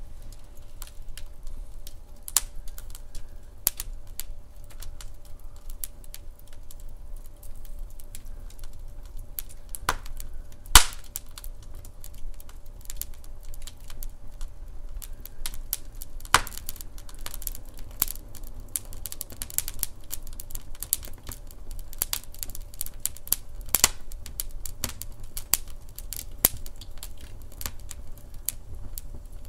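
Wood fire burning in a hearth, crackling with irregular sharp pops and snaps over a low rumble; one louder pop about eleven seconds in.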